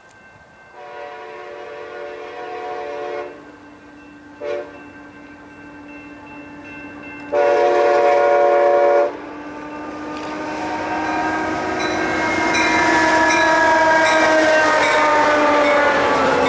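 Diesel locomotive air horn sounding a long blast, a short blast and another long blast. The rumble of the approaching train then grows steadily louder.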